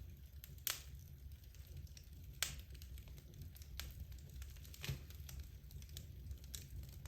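Wood logs burning in a fireplace, crackling with sharp pops every second or two over a low steady rumble.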